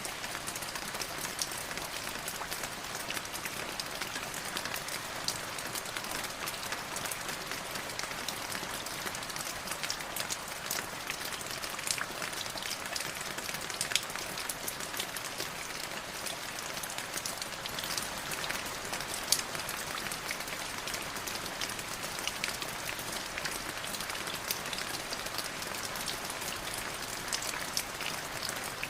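Light drizzle falling steadily, a soft even patter dotted with many small, sharp drop ticks.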